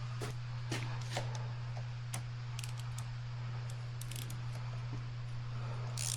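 Scattered light clicks and taps of hand tools and small metal parts being handled while working on a motorcycle, at irregular moments, over a steady low hum.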